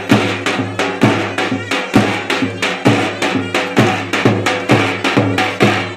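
Turkish folk dance tune (oyun havası) with a heavy drum beat: a strong stroke about once a second with lighter strokes between, over a sustained melody.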